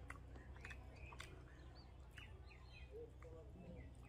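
Near silence: a few faint short bird chirps over a low steady background rumble, with soft clicks from eating a meal by hand.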